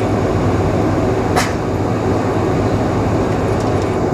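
Steady rumble inside the passenger cabin of a Boeing 747-436 taxiing on the ground, with a low hum underneath. A single sharp click about a second and a half in.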